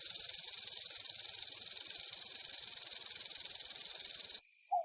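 A steady, high hiss with no distinct tones that cuts off sharply near the end.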